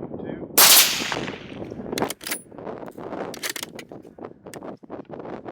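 A single rifle shot about half a second in, a sharp crack fading over about a second, with wind buffeting the microphone throughout.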